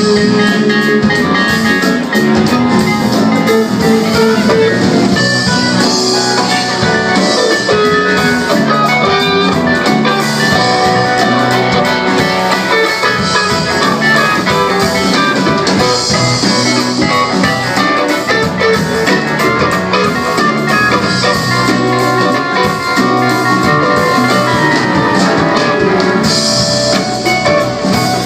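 A live band playing, with guitar and a drum kit.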